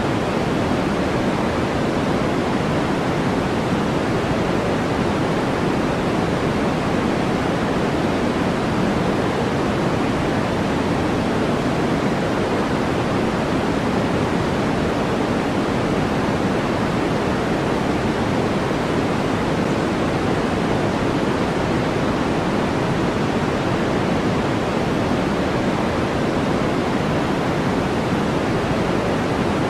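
Steady electronically generated noise of the kind sold as white noise: an even, unchanging hiss, fuller in the low and middle range than in the highs.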